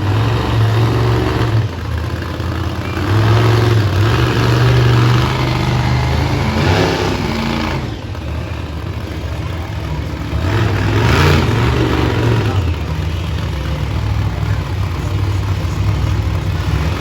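Monster truck's supercharged V8 engine running and revving in repeated surges, rising and falling as the truck performs.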